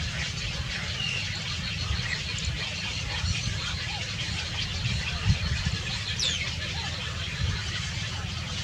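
Birds chirping faintly and briefly over a steady low rumble, with one high call sliding downward about six seconds in.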